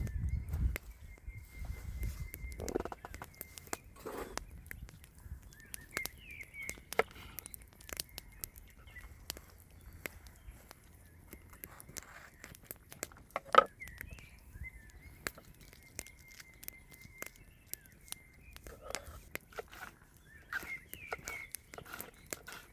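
Birds chirping, with a thin high note held for a few seconds twice, over scattered clicks and knocks; one sharp knock about halfway through is the loudest sound.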